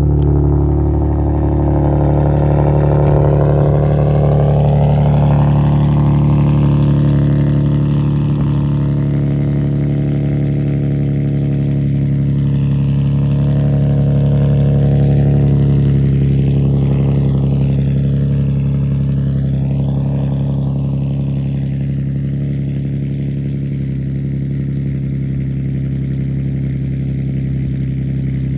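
Infiniti G37's 3.7-litre V6, on E85 with bolt-on intake and exhaust modifications, idling steadily just after a cold start in freezing weather.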